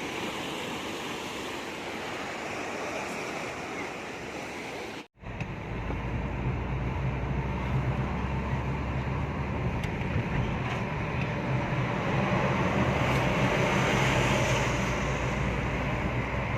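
Sea waves washing on the shore, a steady rushing noise. About five seconds in the sound cuts out for an instant, and then a louder low rumble joins the wash.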